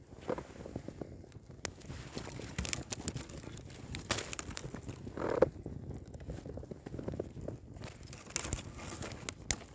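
Campfire of burning wood crackling, with irregular sharp snaps and pops; the loudest pop comes about halfway through.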